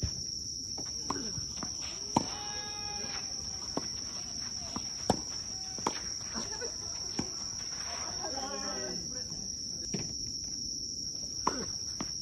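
Tennis balls being struck by rackets and bouncing on the court, as sharp single pops every second or two, over a steady high-pitched drone of crickets. Players' voices call out twice.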